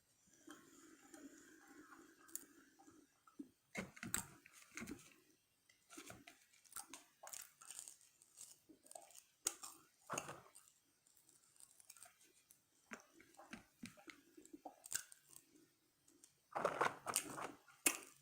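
Close-miked chewing of french fries: irregular wet mouth clicks and soft crunches, with a louder burst of noise near the end.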